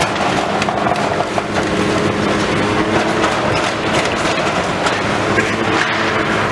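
Heavy demolition machinery at work: a diesel engine running steadily under load, with continual crunching, clattering and knocking of broken building material.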